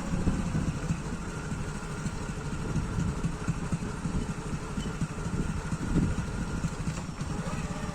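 Motorbike engine running steadily under a dense low rumble, with wind buffeting the microphone.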